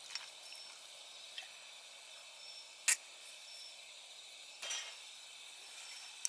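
Wood campfire crackling, with a handful of sharp pops, the loudest about three seconds in, over a steady background of night insects chirping.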